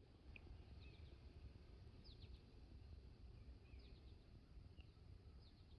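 Near silence: faint outdoor ambience with a low steady rumble and a scatter of short, high bird chirps.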